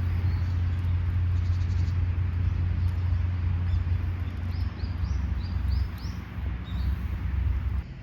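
Small birds chirping, a quick run of about six short calls in the middle, over a steady low rumble.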